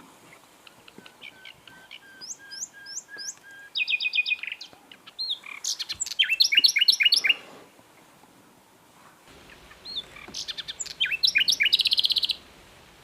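Common nightingale singing: three song phrases separated by pauses of a second or two. The first is a run of low repeated whistles ending in a fast trill, the second a string of quick rising notes, and the third, near the end, closes in another rapid trill.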